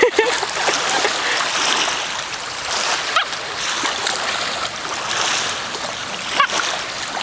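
Shallow lake water washing and splashing steadily at the shoreline, with small waves lapping on the sand.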